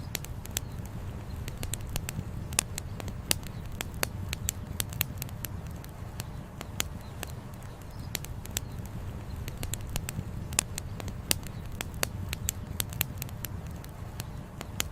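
Wood campfire crackling, with frequent sharp, irregular pops and snaps over a steady low rumble.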